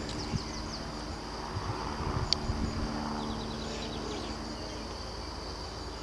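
Outdoor ambience: small birds chirping in short quick runs near the start and again about three seconds in, over a steady high insect-like hum and a faint low steady drone, with one sharp tick in the middle.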